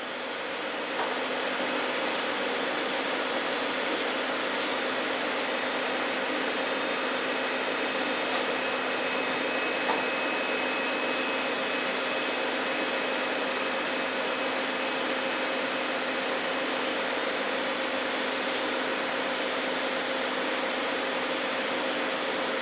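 Steady machine whir with a constant hum, like a running fan or blower motor, and a faint tick about ten seconds in.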